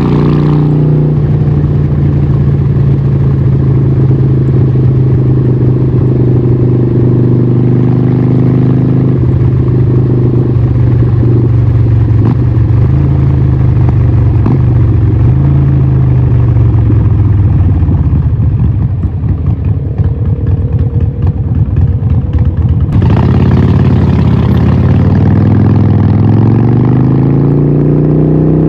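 Harley-Davidson 1200 Nightster's 1200cc Evolution V-twin running through a Vance & Hines exhaust. The engine note drops just after the start, holds steady for a long stretch, sinks to a low, pulsing lope about two-thirds of the way in, then rises again as the engine speeds up near the end.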